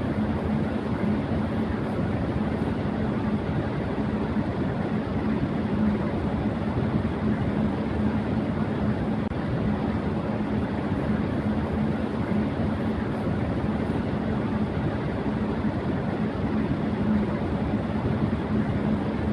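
Electric fan running at high speed: a steady rush of air noise with a constant low hum underneath, unchanging throughout.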